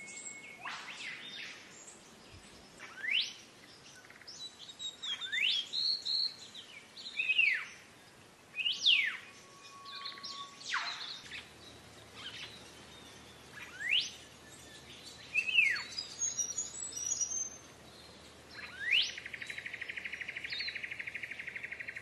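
A black-faced monarch singing a series of loud whistled notes, each a quick sweep sharply up or down, one every second or two. Near the end a steady buzzing trill joins in.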